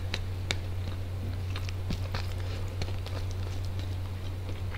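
Close-up eating sounds: chewing a mouthful of biryani rice, with scattered sharp clicks and crackles as fingers pick through rice in an aluminium foil tray. A steady low hum runs underneath.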